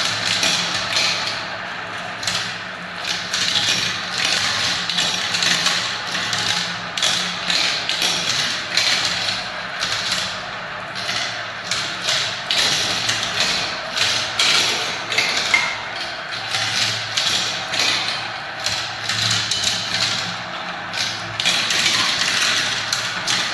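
Many marbles rolling and clattering down a marble-run track: a steady, dense rattle of small clicks and taps.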